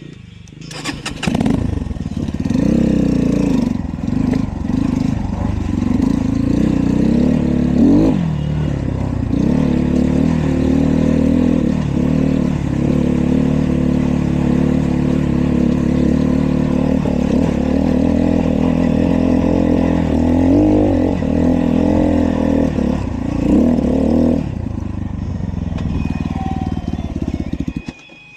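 Dirt bike engine catching about a second in, then running with the revs rising and falling; it drops away near the end.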